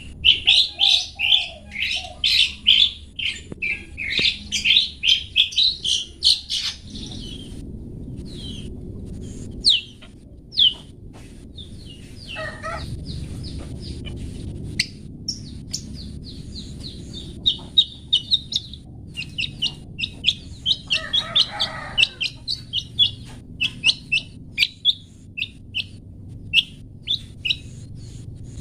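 Long-tailed shrike (cendet) singing its 'toet toet' song: rapid runs of short, high chirping notes, thinning to scattered single notes in the middle before another fast run, with two lower, harsher descending calls mixed in. A low steady hum sits underneath.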